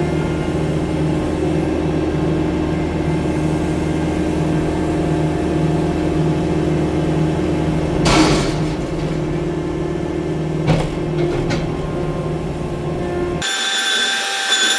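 Tracked skid steer loader's engine running steadily, with a sharp knock about eight seconds in and another near eleven seconds. Near the end the low engine hum cuts off abruptly and gives way to a higher, thinner whine.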